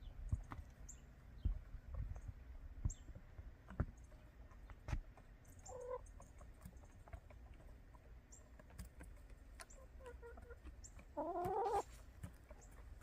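Backyard hens clucking: a short call about six seconds in and a louder, longer call near the end, with faint high chirps and low knocks in between.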